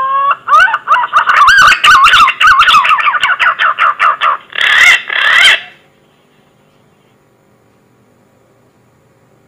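Green pigeon (punai) song used as a lure call: a run of mellow, wavering whistled notes with rising glides, quickening into rapid warbles before stopping about six seconds in.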